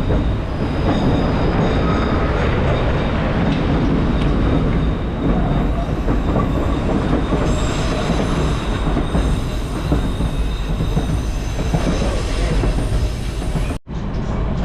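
White Pass & Yukon Route narrow-gauge train running on the rails, heard from on board: a steady, loud rumble and rattle, with the wheels squealing in several thin high tones through the middle stretch. The sound breaks off for an instant near the end.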